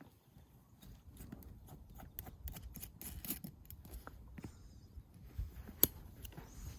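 Irregular clicks, taps and knocks of camping gear being handled, with one sharp knock about six seconds in.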